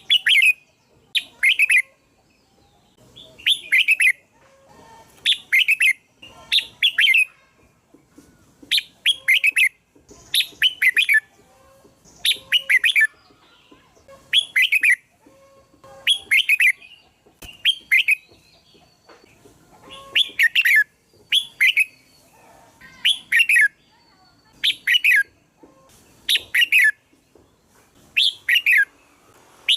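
Red-whiskered bulbul song: short, bright, chirpy phrases repeated about every second or two.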